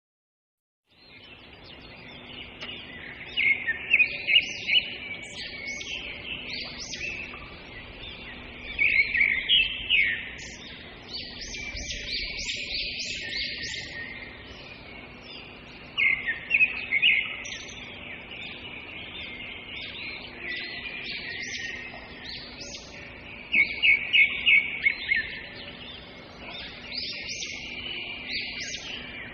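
Small songbirds chirping and singing, starting about a second in, with a loud burst of rapid chirps recurring about every seven seconds over a faint steady hum.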